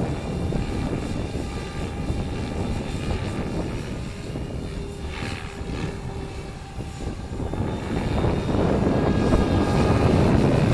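Stretched MSHeli Protos RC helicopter in flight in strong wind: a low wind rumble over the mic with the rotor and drivetrain running as faint steady tones underneath. The rumble eases somewhat past the middle and builds again near the end.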